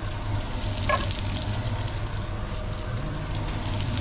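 Breadcrumbed wahoo pieces sizzling and crackling in hot oil in a frying pan, with a short clink of metal tongs about a second in.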